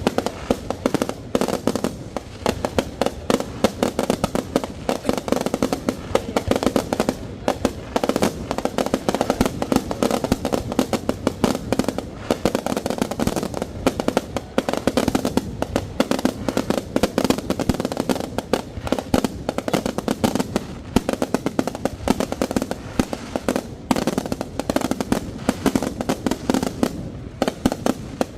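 Fireworks finale: a dense, continuous barrage of bangs and crackles, many shells bursting in quick succession without a break.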